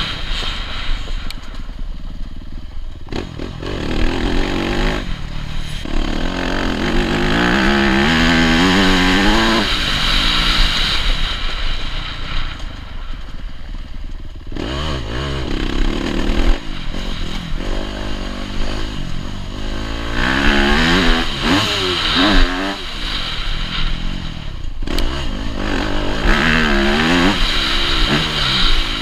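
Yamaha YZ250F motocross bike's four-stroke single-cylinder engine being ridden hard. The revs climb steeply through the gears, then drop off, several times over.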